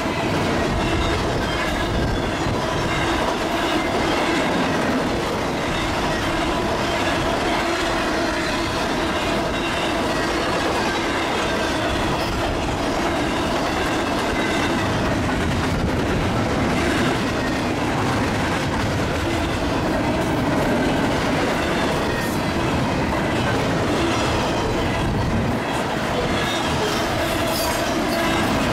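Double-stack intermodal freight train's well cars passing close by at speed: a steady rumble and clatter of steel wheels on the rails.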